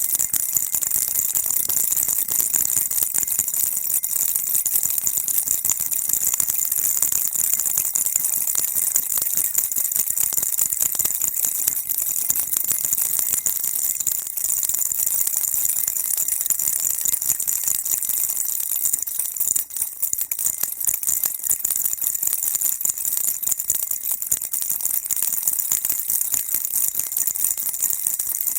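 A baby rattle shaken continuously, a dense high-pitched rattling and jingling used as soothing white noise, with a brief break about two-thirds of the way through.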